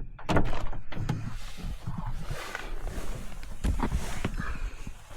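Irregular knocks, thuds and rustling, as of objects being handled and moved about.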